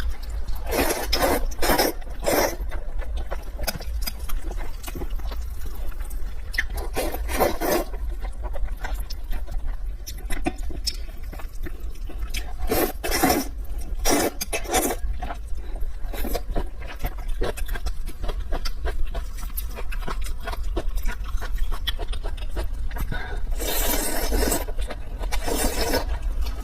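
Close-miked eating sounds: scattered bursts of biting and chewing, with scrapes and clinks of utensils, over a steady low hum. The longest two bursts come near the end.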